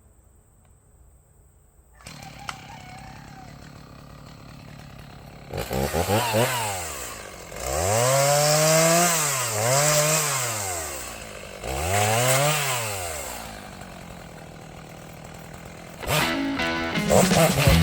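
Stihl MS290 two-stroke chainsaw idling, then revved up and back down three times, once with a quick dip in the middle of a rev, before settling back to idle. Music comes in near the end.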